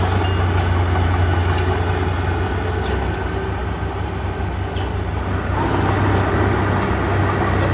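Heavy diesel engine running steadily with a deep hum, its sound filling out slightly about five and a half seconds in.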